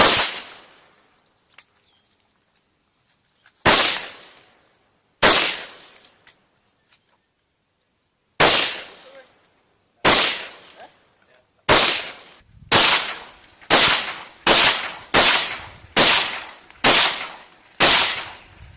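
AR-15 in .223 Wylde with a muzzle brake firing about thirteen single shots at a 12-inch steel gong, spaced a few seconds apart at first and then quickening to about one a second. Each shot has a ringing tail.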